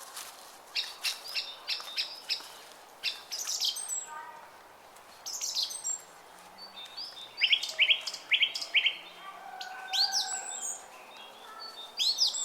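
Songbirds chirping: runs of quick, repeated high notes, the loudest two runs about a second in and about halfway through, with single calls between. Under them is a faint, steady murmur of flowing water.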